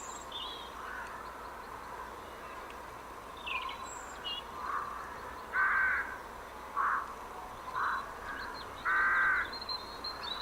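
Bird sounds playing from an HP computer's speaker: small high chirps, then four or five crow-like caws in the second half. The owner cannot explain the sounds and suspects a virus.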